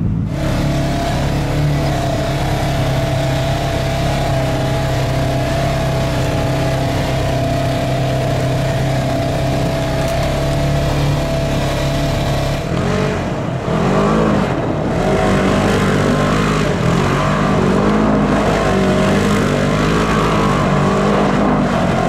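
A car engine running at a steady drone. About twelve seconds in, the engine speed starts rising and falling unevenly.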